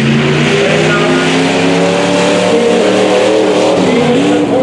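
A tuff truck's engine running loud under throttle, its pitch rising and dipping slightly as it works over the course.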